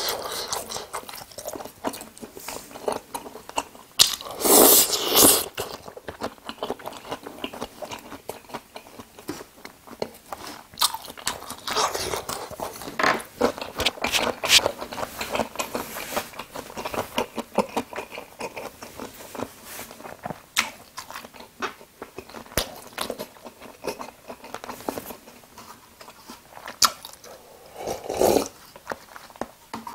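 Close-miked eating sounds of jajangmyeon noodles: chewing, biting and wet mouth clicks, with a loud noisy stretch about four seconds in. Near the end comes a sip from a paper cup.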